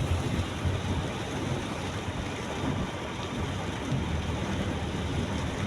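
Steady noise of heavy rain and a moving car, with a constant low rumble from the road and engine underneath.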